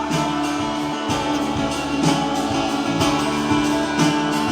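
Live gospel worship band playing between sung lines: guitar and sustained keyboard-like chords over a steady drum beat, with little or no singing.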